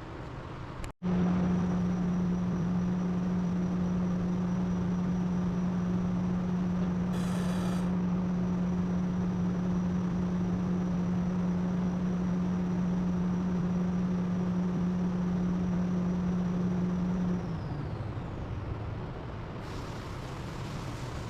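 A motor-driven machine running with a steady hum, then switched off about sixteen seconds in, its high whine falling as it spins down.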